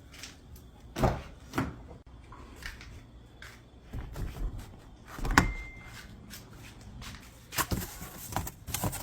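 A series of knocks and clicks, like handling or door and latch sounds, with a brief high steady tone about five seconds in.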